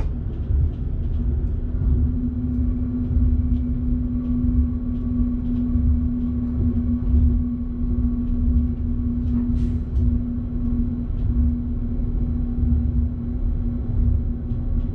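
Electric train running, heard from the driver's cab: a steady low rumble with a steady hum and scattered faint clicks.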